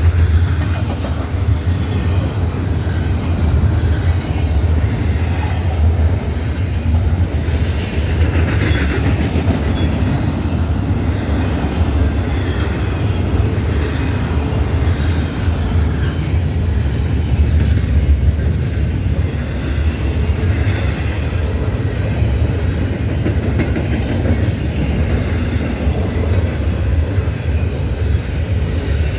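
Norfolk Southern intermodal freight train rolling past, its cars' wheels making a steady low rumble on the rails.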